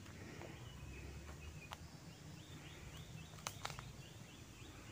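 Faint birdsong: a bird repeating short chirping notes, several a second, mostly in the second half. A few sharp clicks come through, one about a third of the way in and two close together past the middle.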